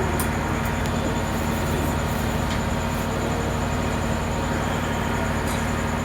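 A steady low mechanical hum with a continuous noisy background, broken only by a few faint clicks.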